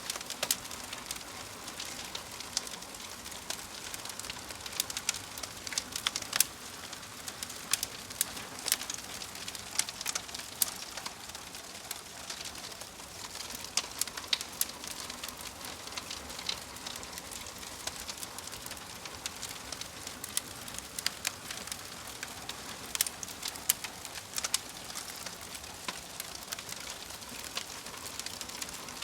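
Wood fire crackling steadily, with frequent sharp, irregular pops and snaps over a soft hiss.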